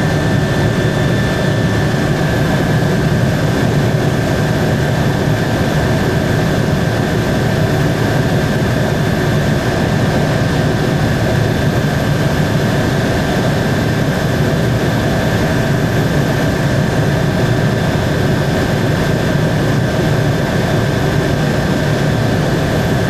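Helicopter in steady cruising flight: constant engine and rotor noise with a steady high whine over it, unchanging throughout.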